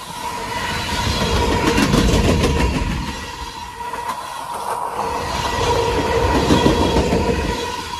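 Freight train's tank cars and open-top gondolas rolling past close by, steel wheels running on the rails. The rumble swells twice, about two seconds in and again near the end, as sets of wheels go by, over a steady ringing tone.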